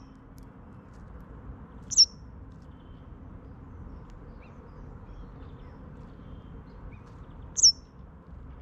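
Two short, sharp, high-pitched bird calls about five and a half seconds apart, each dropping quickly in pitch, from a small songbird close by.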